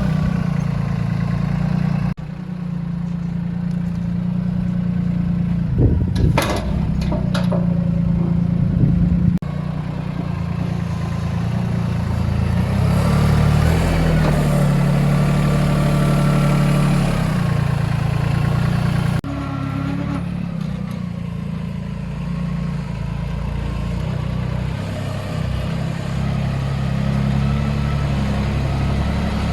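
Compact tractor diesel engine running steadily, with a few sharp metallic clanks about a fifth of the way in. The sound changes abruptly a few times as clips cut.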